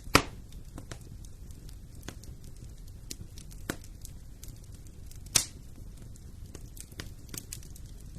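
Wood fire burning in a fireplace, a low steady rumble with scattered crackles and two sharp pops, one just after the start and a louder-sounding one about five seconds in.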